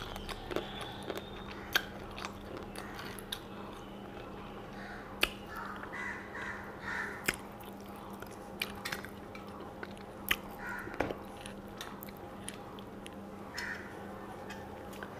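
Close-miked chewing and mouth sounds of someone eating rice and fish with her fingers, with sharp smacking clicks scattered through and soft squishing as the rice is mixed by hand on a steel plate.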